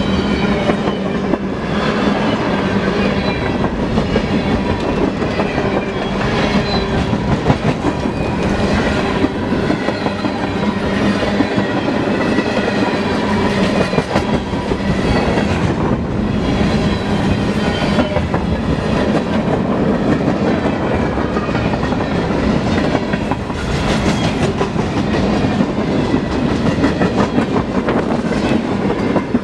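Freight train's cars rolling past, steel wheels clacking steadily over the rail joints.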